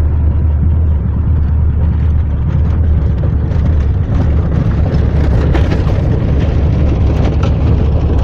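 A vehicle on the move: a steady low drone with noise over it, and some light crackling from about three seconds in.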